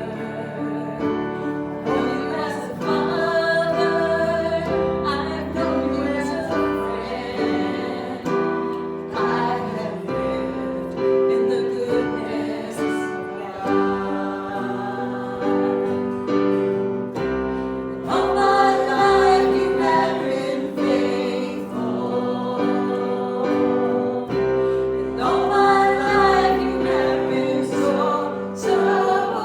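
Church worship music: voices singing with piano accompaniment, continuous and steady.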